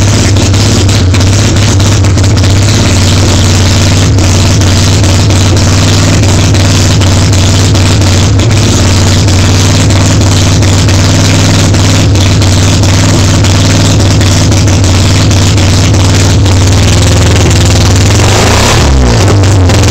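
Street-ported Mazda 12A two-rotor Wankel engine on a 48 IDA carburettor, running loud and steady at a fast idle. Near the end the revs climb.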